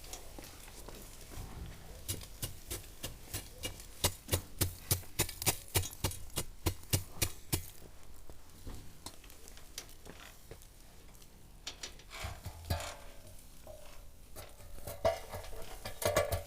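Knife chopping on a cutting board: a run of quick, even strokes at about three a second, followed by a few scattered knocks and clatter near the end.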